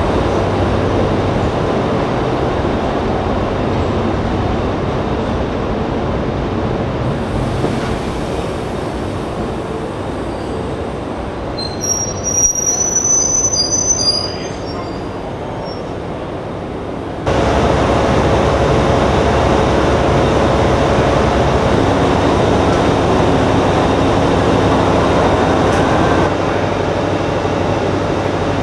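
DB class 601 TEE diesel trainset at a station, a steady train rumble with a faint hum. A brief high-pitched squeal comes just before the middle, and the rumble steps up suddenly later on.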